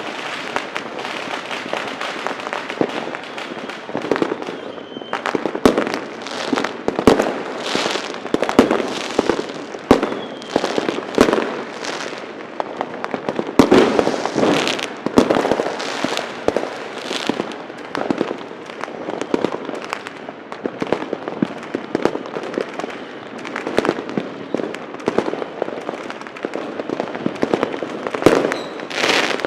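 Many fireworks and firecrackers going off at once, a dense crackle with frequent sharp bangs.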